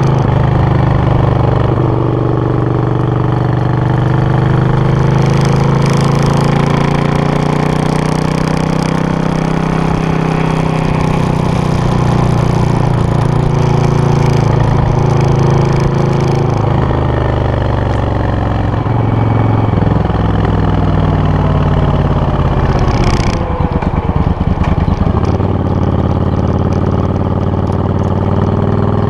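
Suzuki VS800 Intruder's V-twin engine running through its exhaust, the revs rising and falling several times. Near the end it drops to a lumpy low idle with separate firing pulses, then picks up again.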